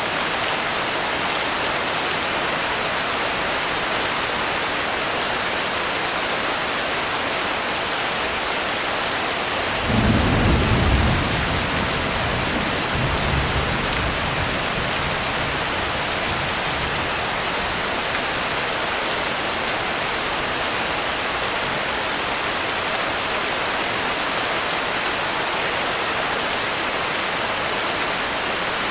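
Steady heavy rain, with a low roll of thunder that breaks in suddenly about a third of the way through, rumbles a second time a few seconds later and fades back into the rain.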